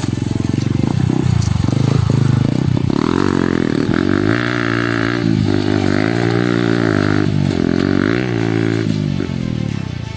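Yamaha R15 dirt-bike conversion's single-cylinder four-stroke engine running and revving, the pitch climbing and dropping back several times in the middle stretch.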